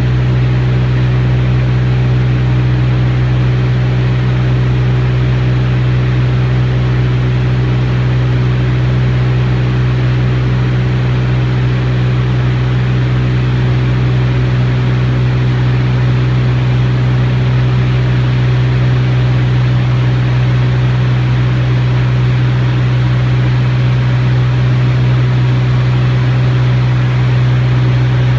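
T-34 Mentor aircraft engine and propeller droning steadily, a constant low hum that stays at the same pitch and loudness throughout.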